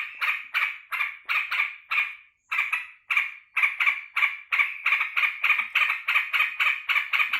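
Yellow-vented bulbul (trucukan) calling excitedly in a fast, unbroken run of short chattering notes, three to four a second, with a brief break about two and a half seconds in. It is the bird's excited greeting for its keeper, who has just come home.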